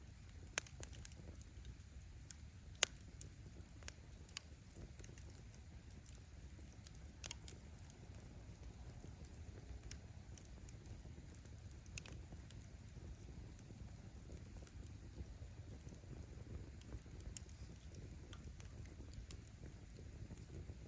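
Wood bonfire burning: a steady low noise from the flames, with scattered sharp pops and crackles from the firewood. The loudest pop comes about three seconds in, and another stands out near the end.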